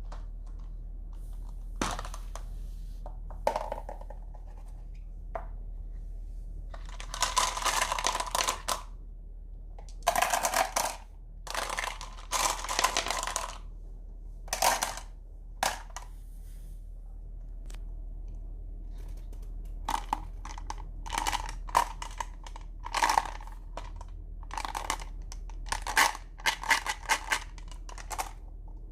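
Marbles and small wooden toy vehicles rolling down a wooden marble-run slope, clicking and clattering against the track in bursts, with a dense run of rattling near the end. A steady low hum lies underneath.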